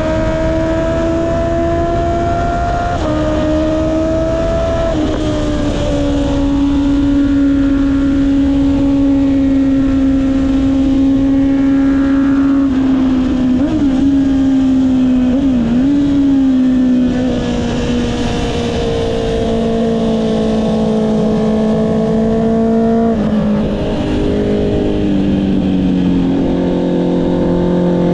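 Honda CB650R inline-four with an Akrapovic exhaust, ridden at a fairly steady throttle, with wind noise on the microphone. The engine note sinks slowly, dips briefly twice in the middle and drops in steps near the end.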